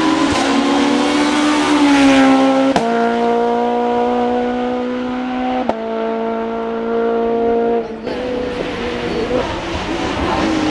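Hill-climb racing car engine running hard at high revs, its note held fairly steady. It changes gear with sharp clicks about three and six seconds in, then eases off near the end.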